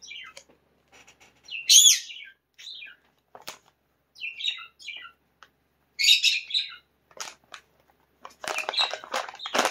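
Caged pet birds chirping in short, scattered calls with gaps between them, the loudest about two seconds in and a busier run near the end.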